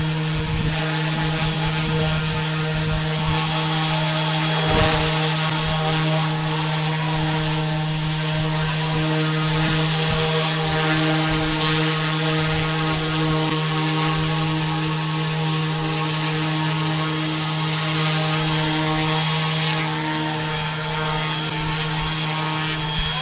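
Eachine E190 RC scale helicopter's brushless motors and two-blade rotor running at a steady hovering speed, a constant whine with no change in pitch. Wind buffets the microphone in gusts underneath.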